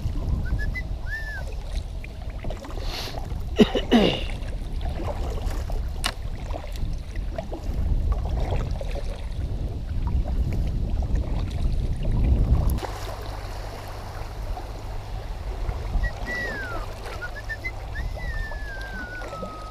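Kayak paddling on a creek with wind buffeting the microphone; the wind rumble eases off abruptly about two-thirds of the way through. Faint short whistled chirps come near the start and again near the end, and a brief falling sound stands out a few seconds in.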